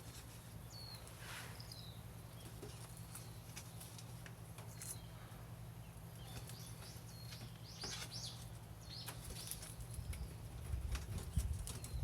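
Small birds chirping intermittently in short, high calls, over a steady low hum with scattered sharp clicks. Louder low thumps come in near the end.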